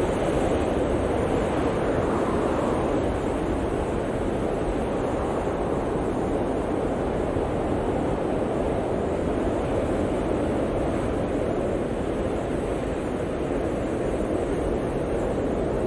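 Blizzard wind blowing in a steady rush, a little stronger for the first couple of seconds before easing slightly.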